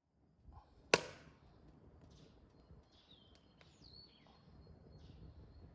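A single sharp knock about a second in, then faint birds chirping with short gliding calls and a thin held whistle.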